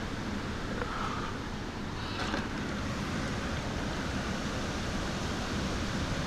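Strong thunderstorm wind gusting, a steady rushing noise, with wind buffeting the microphone.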